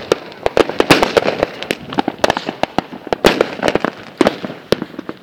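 Fireworks going off in a rapid, irregular stream of sharp cracks and bangs, several a second, some louder than others.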